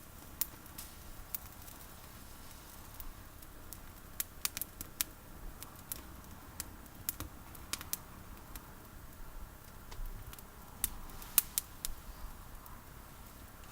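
Campfire of olive branches crackling, with irregular sharp pops and snaps over a faint steady hiss.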